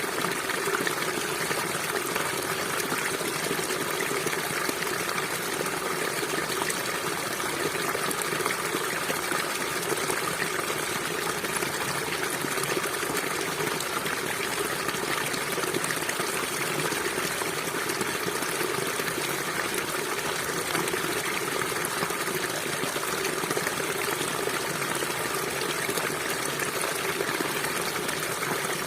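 River water flowing over rocks in a steady, even rush, with no change or pause.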